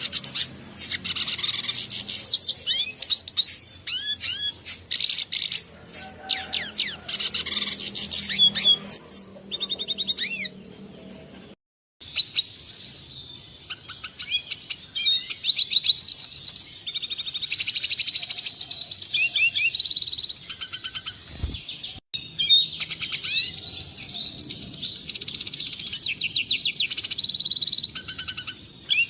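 Red siskin song: a fast, continuous twittering of high chirps, trills and rising whistles. It breaks off briefly a little before the middle and again about three quarters in.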